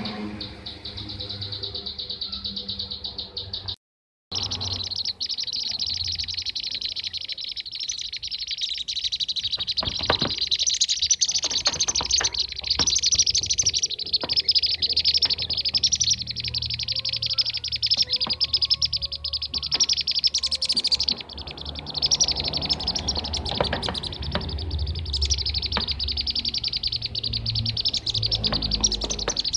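A dense, continuous chorus of bee-eater (kirik-kirik) calls, many rapid high chirps overlapping, as played for a bird-lure recording. It drops out completely for a moment about four seconds in.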